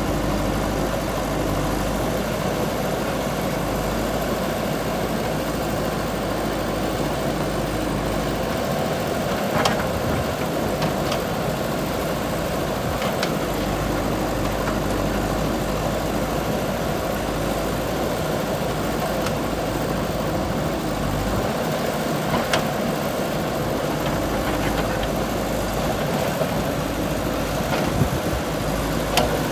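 JCB 3DX backhoe loader's diesel engine running steadily under work, with a few sharp knocks now and then.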